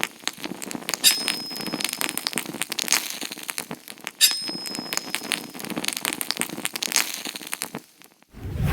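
Dense, irregular crackling and clicking, twice joined by a thin high steady tone lasting about a second; it fades out near the end before a short loud low burst.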